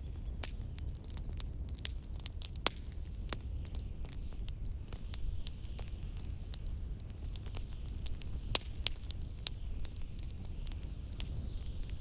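Wood fire crackling with frequent, irregular sharp pops over a steady low rumble of blizzard wind.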